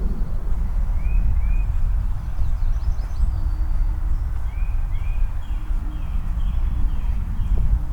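Songbirds singing: paired arched whistles, then a quick run of repeated down-slurred notes in the second half. Under them run footsteps on pavement and a steady low rumble.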